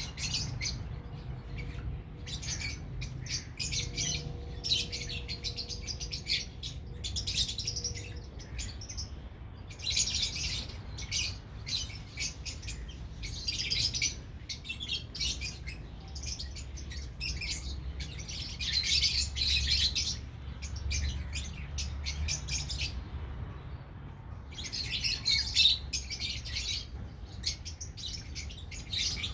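Lovebirds chirping: quick, high-pitched chirps in busy clusters of a second or two, with short pauses between.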